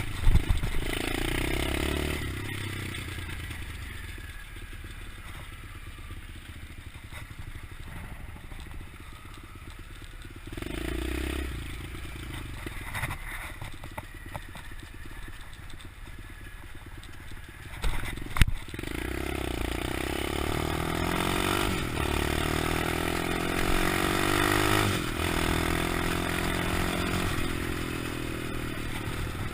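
125cc pit bike engine running as the bike is ridden, the revs rising and falling. The first half is quieter, with a short rev burst about a third of the way in. A sharp knock comes a little past halfway, then the engine revs up and down more strongly through the rest.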